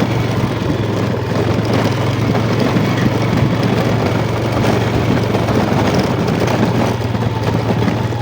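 Yamaha Jupiter MX motorcycle engine running steadily while riding, with a constant hum and a dense rushing noise over it.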